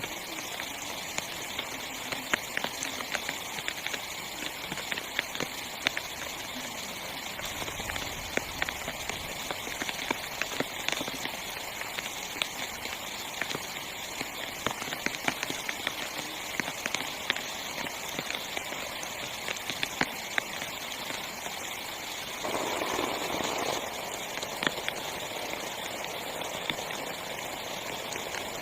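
Heavy rain falling steadily on a small tent, with many separate sharp drop hits over an even hiss. About two-thirds of the way through, a louder, deeper rush swells for a second or two.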